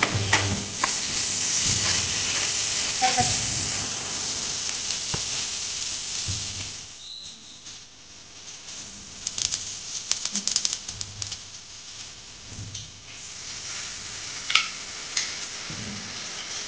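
Food sizzling as it fries in hot oil: potatoes, tomatoes and green chillies in a pan. After a short lull about seven seconds in, oil in an aluminium pressure cooker crackles and pops sharply for a couple of seconds, then settles into a steady sizzle with a few single pops as rice and a dried red chilli go in.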